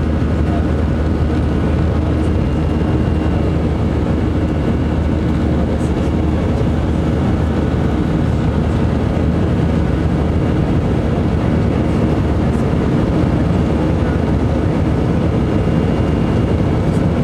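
Steady cabin noise inside an Airbus A319: a continuous low hum and rush from the jet's engines and airflow, unchanging throughout.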